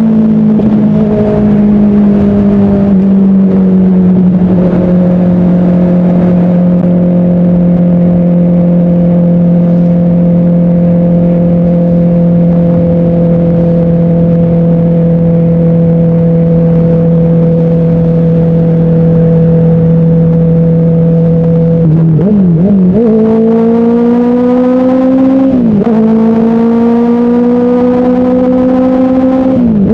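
Motorcycle engine heard from the rider's seat at highway speed, holding steady revs with the pitch slowly sinking for about twenty seconds. Near the end it accelerates through the gears: the pitch climbs and drops back at each of three upshifts.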